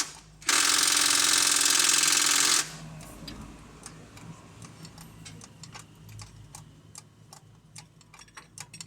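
An air-powered tool runs in two loud bursts, a short one and then one of about two seconds that cuts off sharply. After it comes a run of light, irregular metallic clicks and ticks of hand tools.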